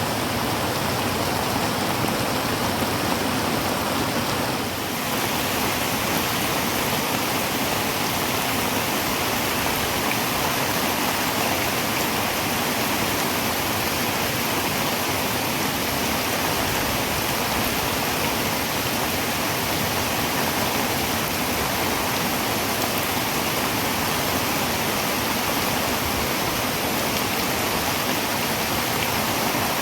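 Heavy rain falling on a tin roof: a dense, steady hiss of countless drops, easing slightly for a moment about five seconds in.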